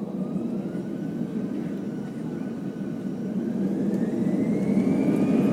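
Airbus A320 jet engines heard from inside the cabin: a steady low rumble with a whine that rises in pitch and grows louder as the engines spool up for takeoff.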